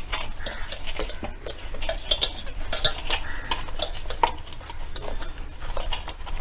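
Irregular clicks, scrapes and rustles of hands working a masala-coated whole chicken, pushing wooden sticks through its legs and thighs to hold them in place.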